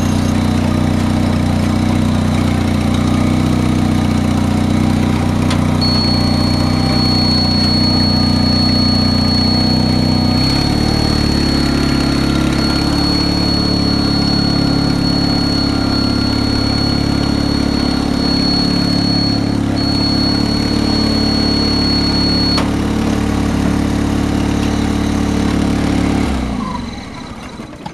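A Honda's engine running steadily, its note shifting about ten seconds in, with a thin high-pitched squeal held over the middle of the run. The engine is then shut off near the end.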